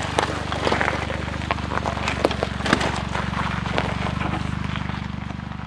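Suzuki Jimny JB23's small three-cylinder engine running at a steady pace, with scattered sharp crackles from the tyres over a gravel forest road. The engine sound fades away near the end.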